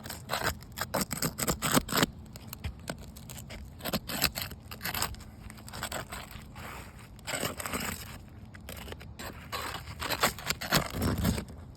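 Small crowbar scraping and prying under a roof shingle, with crackling as the brittle shingle tears. Irregular scrapes and clicks, busiest in the first two seconds, then quieter with occasional louder spells.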